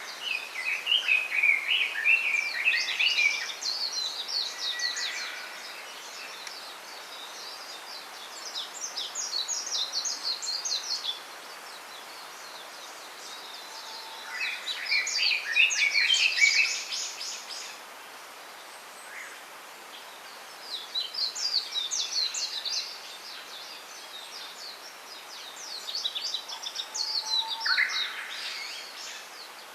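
Small songbirds singing in repeated bouts of rapid, high twittering phrases a few seconds long, with some lower chirps among them, over a steady faint hiss.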